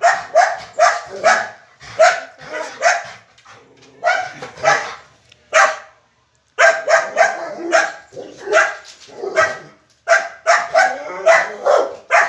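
A dog barking in rapid volleys, several barks a second, with a short pause about six seconds in; the barking of a dog stirred up by another animal nearby.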